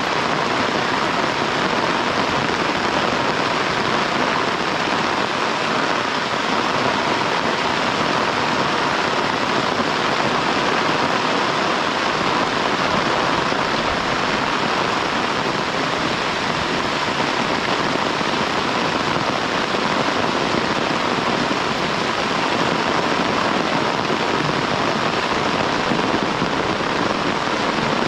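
Heavy downpour of rain, a dense, steady hiss with no let-up.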